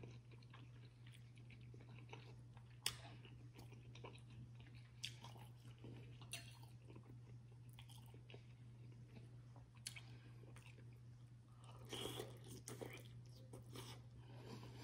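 Quiet, close-up eating sounds: chewing and biting on seafood-boil food, with a few sharp clicks spaced several seconds apart and a busier stretch of chewing about twelve seconds in.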